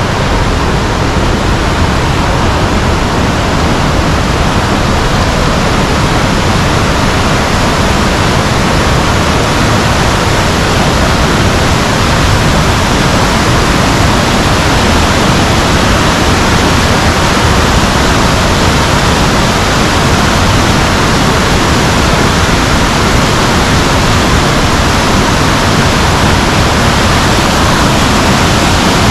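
Lozoya River rushing over rocks: a loud, steady roar of fast-flowing water with no change.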